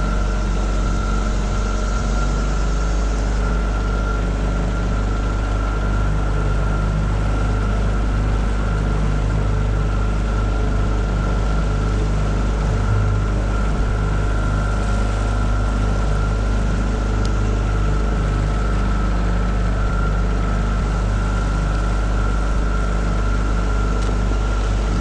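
Tohatsu 9.8 hp four-stroke two-cylinder outboard motor running steadily, heard from aboard the small boat it pushes, with a constant high whine over its low drone.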